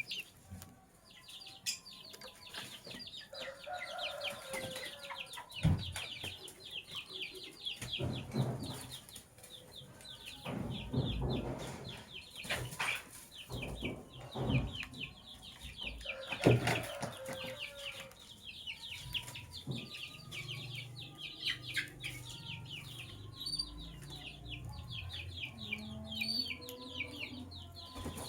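Lovebirds chattering: a continuous stream of rapid, high, short chirps, with a few sharp knocks and rustles in between.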